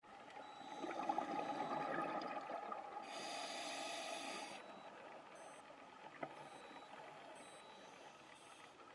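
Underwater sound of a scuba diver's regulator breathing: exhaled bubbles gurgle and crackle for about two seconds, then an inhalation hisses through the regulator for about a second and a half starting about three seconds in, followed by fainter bubbling and a single click.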